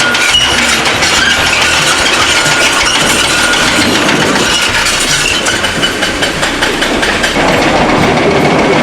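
Diesel engine of heavy construction machinery running steadily at a construction site.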